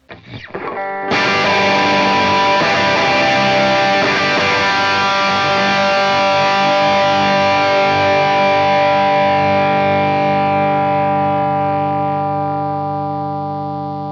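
Distorted electric guitar through a Marshall JCM 800 amp simulation: after a few brief notes, one chord is struck about a second in and left to ring, fading slowly.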